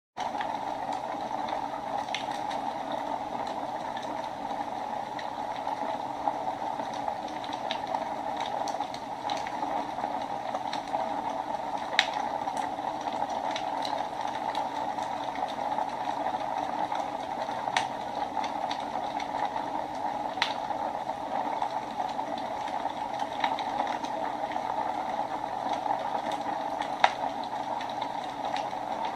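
Fire burning in a fireplace: a steady hiss with irregular sharp crackles and pops.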